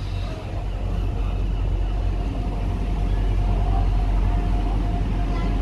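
Class 175 diesel multiple unit running into the platform: a low engine rumble that grows louder over the first two seconds, with a thin steady whine above it.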